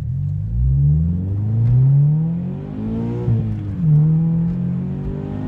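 Supercharged Scion FR-S's 2.0-litre flat-four accelerating hard under full throttle, heard from the cabin. It rises in pitch for about three seconds, drops as it shifts up, then pulls on in the next gear.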